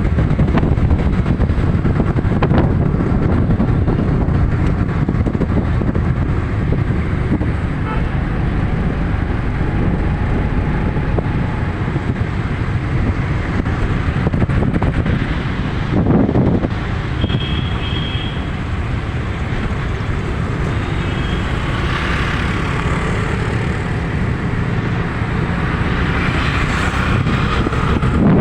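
Steady, loud rumble of a moving vehicle, with a short high-pitched toot about two-thirds of the way through.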